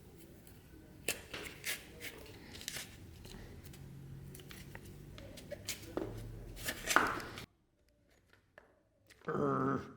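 Small hand-work noises: a scattering of short clicks and scrapes, like tools and parts being handled on a bench. About two-thirds of the way through the sound cuts to near silence. Near the end there is a brief pitched hum.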